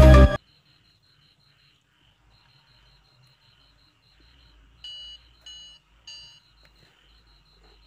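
Electronic music that cuts off abruptly, then three short high-pitched electronic beeps in quick succession near the end.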